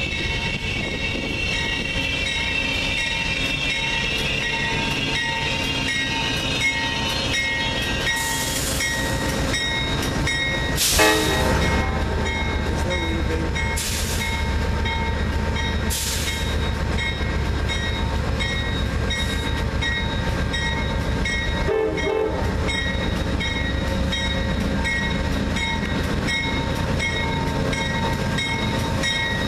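Amtrak GE Genesis diesel locomotive and its train rolling slowly into a station, the diesel engine running steadily and growing deeper as the locomotive draws alongside. Several short sharp hisses come between about eight and sixteen seconds in, the loudest a brief burst about eleven seconds in.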